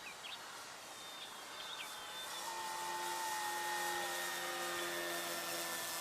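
Electric RC model airplane's motor and propeller whining in flight. The steady tone grows louder from about two seconds in, its pitch dipping slightly.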